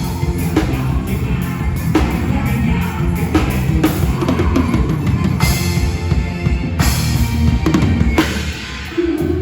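Instrumental band music led by a drum kit with bass drum and snare over a steady bass line, with no singing. The music drops briefly just before the end.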